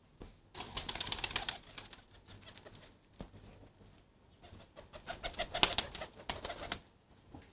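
Domestic pigeons with two bursts of rapid wing flapping, the first about half a second in and the second from about four and a half seconds, with a single sharp knock in between.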